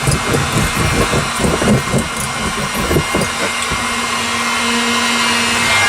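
Handheld hot-air blower running steadily with an even hiss and a low hum, warming sound-deadening sheet so it goes on more easily. Irregular low knocks and rubbing come and go over the first three seconds or so.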